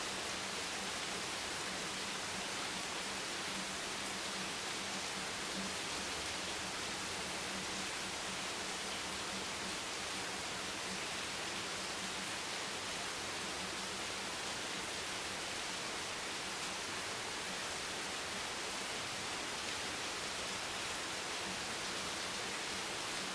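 Steady rain, an even hiss with no single drops or gusts standing out.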